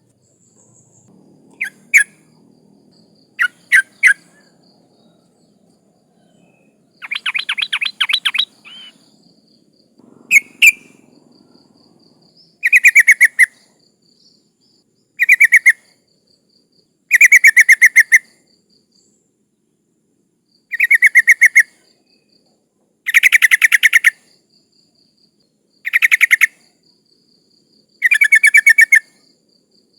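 Yellow-vented bulbul (trucuk) giving rapid bubbling chatter calls. A few short double notes come first, then a longer trill, then bursts of about a second each repeating every two seconds or so. The calls are offered as a female calling to males.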